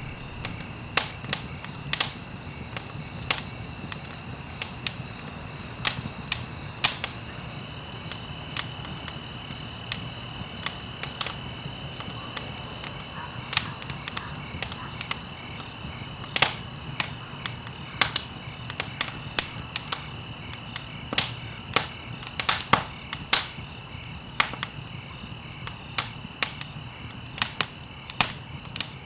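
Wood fire crackling, with irregular sharp pops and snaps, several a second at times, over a soft steady rumble. A faint steady high-pitched tone runs underneath.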